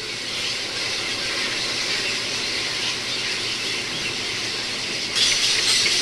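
Many herons and egrets calling together in a nesting colony, a dense high-pitched squealing chatter that gets suddenly louder about five seconds in.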